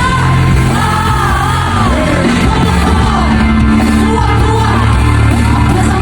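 Live K-pop concert music in a large hall: a loud pop song with a wavering sung melody over heavy held bass notes, and the crowd yelling along.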